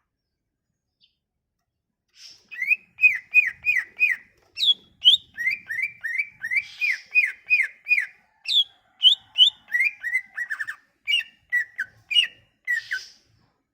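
A songbird singing, starting about two seconds in: a run of short, clear whistled notes, about three a second, each sliding around one pitch, with higher notes mixed in now and then.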